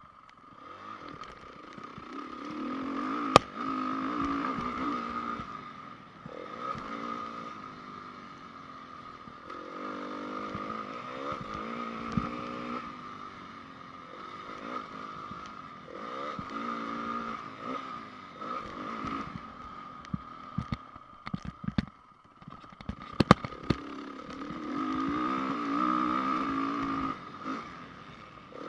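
2010 Honda CRF450 motocross bike's single-cylinder four-stroke engine revving up and falling back again and again through a lap, over a steady high whine. Sharp knocks cut in about three seconds in and in a quick cluster past the twenty-second mark.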